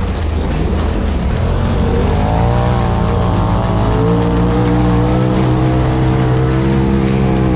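Side-by-side UTV engine running hard on a dirt race track: the pitch climbs about two seconds in, holds at high revs, then drops near the end. Background music plays along with it.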